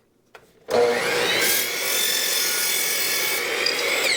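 Miter saw motor starting about three-quarters of a second in, its whine rising as the blade spins up, then running steadily as the blade cuts through a tree branch to square its end.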